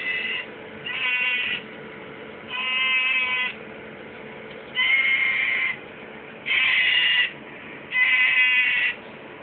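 Repeated bird calls: six loud calls of steady pitch, each up to about a second long, coming about every one and a half seconds.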